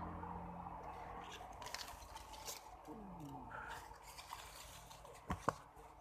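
Faint background: the sound of a passing vehicle dies away in the first second, followed by scattered small clicks and rustles, and two sharp clicks close together near the end.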